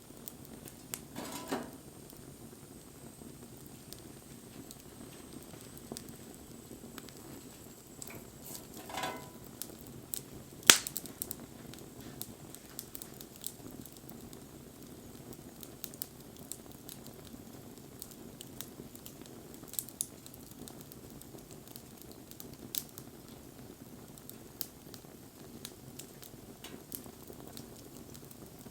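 Wood campfire burning with a steady low hiss and scattered crackles and pops. One sharp, loud pop comes about ten seconds in.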